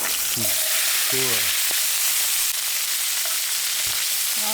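Thick beef steak sizzling in a hot frying pan, a steady hiss. Two short falling pitched sounds come in the first second and a half.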